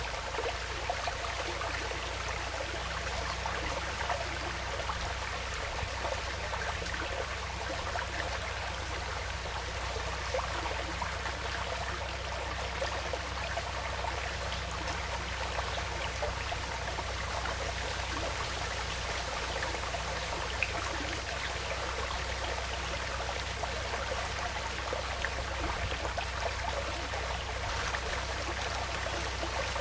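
Small woodland stream flowing and trickling steadily over its bed.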